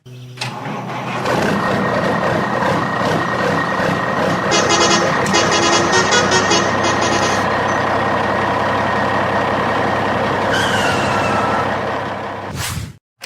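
Truck engine running steadily, with a rapid high-pitched chatter for a few seconds in the middle and a short falling tone near the end. It cuts off suddenly just before the end.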